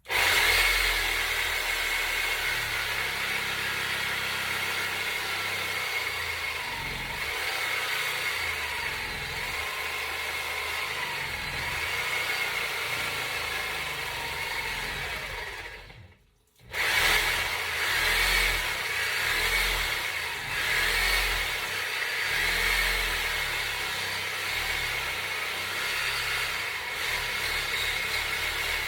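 Power tool cutting through a cast-iron drain pipe, running steadily with a faint whine whose pitch wavers under load. It stops briefly about halfway through, then starts cutting again.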